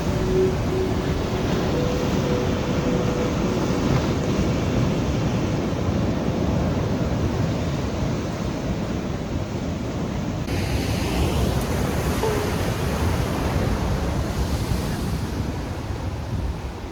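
Ocean surf washing against rocky sea cliffs, mixed with wind buffeting the microphone: a steady, dense rush.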